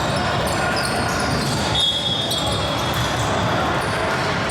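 Indoor basketball game sound: a ball dribbling, sneakers squeaking on the court, and a longer high squeal about two seconds in, over a background of spectators' voices.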